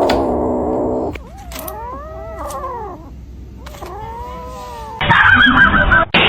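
Domestic cat yowling: a long steady call, then two drawn-out calls that rise and fall in pitch. About five seconds in, a louder, noisier sound with a wavering tone takes over.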